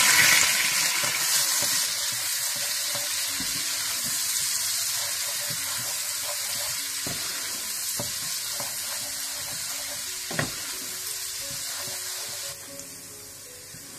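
Crushed garlic sizzling in hot melted butter as it is sautéed, stirred with a wooden spatula that knocks against the pan a few times, most sharply about ten seconds in. The sizzle slowly weakens and drops off sharply near the end.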